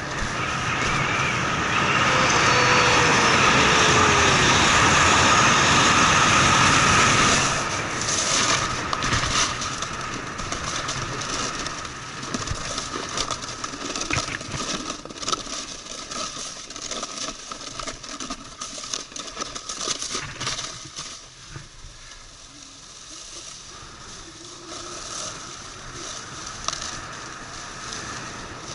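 Snowboard sliding over snow with wind on the microphone: a loud steady rush for the first seven seconds or so, then the scraping and crackling of the board's edge on the snow, quieter in the second half.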